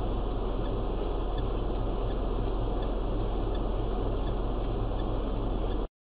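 Steady low hum of a car's idling engine heard from inside the cabin through a dashcam microphone, with faint regular ticking; it cuts off suddenly near the end.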